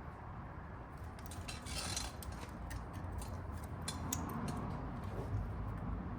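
Hand work on motorcycle intake parts: scattered light clicks and knocks of rubber boots and metal being handled, with a short hiss of aerosol lube spray about two seconds in.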